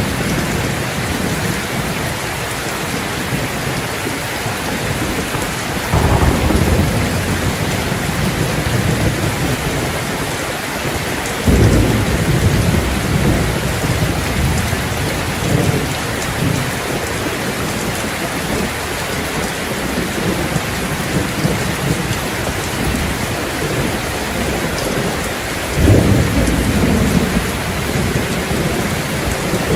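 Steady heavy rain falling on hard surfaces, with rolls of thunder rumbling low three times: about six seconds in, near the middle, and again near the end.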